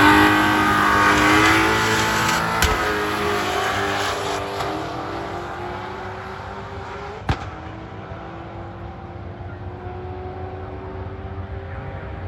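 Drag-racing cars launching at full throttle and running away down the strip, the engine note loud at first and fading steadily with distance while its pitch slowly climbs. There is a sharp click about seven seconds in.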